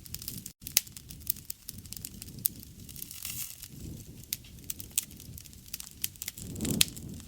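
Wood fire crackling, with many sharp pops over a low rumble of the flames that swells near the end.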